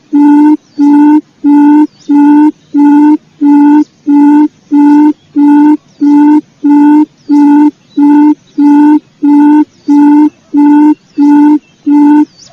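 Recorded quail lure call: a low hooting note repeated about twice a second in an even, unbroken series, each note steady in pitch.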